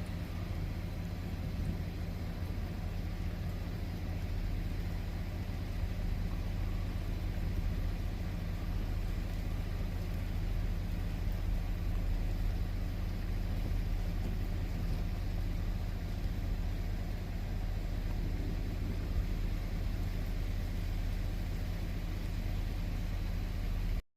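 Steady low engine drone of a motor vehicle running, with an even hum that holds the same pitch throughout and cuts off abruptly at the end.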